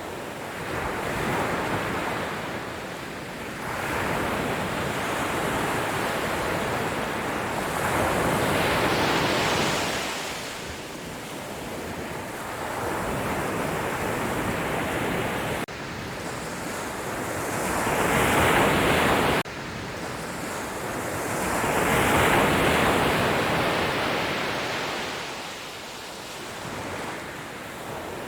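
Sea waves breaking on a shore, the surf swelling and fading in surges every few seconds, with a gusty wind on the microphone. The sound drops off abruptly twice, past the middle.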